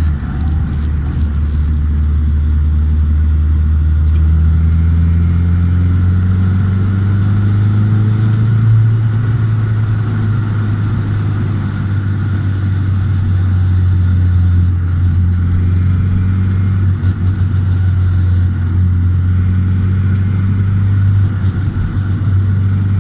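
Nissan 200SX S14 running, a steady high whine sitting over the engine's low drone, whose pitch drifts slowly up and down.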